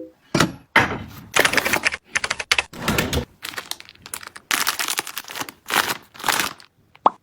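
Plastic packaging rustling and crinkling in a quick run of bursts as goods are handled, ending in a single sharp click.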